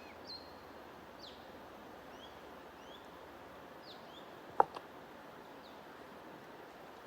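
Small birds chirping with short, scattered rising and falling notes over a steady hiss. About four and a half seconds in there is one sharp, loud click.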